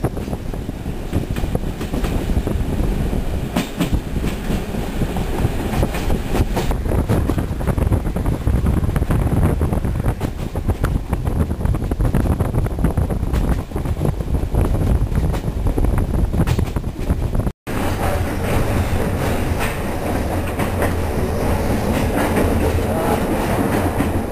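Passenger train running along the track: a steady low rumble with the wheels clattering over the rail joints. About two-thirds of the way through it cuts off for an instant and resumes with a slightly different rumble.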